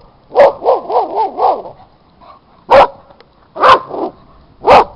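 A dog barking: a quick run of about five barks near the start, then three single loud barks about a second apart.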